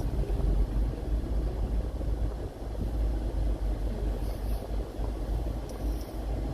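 Car cabin noise while driving: a steady low rumble of engine and tyres, with a few faint brief hisses about four and six seconds in.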